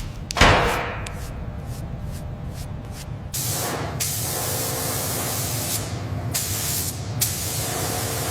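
Paint spray gun hissing as the car body is sprayed: a sharp burst about half a second in, a few short puffs, then a long steady spray from about three seconds in, broken by brief pauses.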